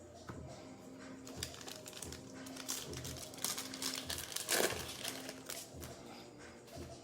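Background music with a steady beat, with crinkling and rustling from a trading card pack and its plastic wrapper being handled. The rustling builds in the middle and is loudest about four and a half seconds in.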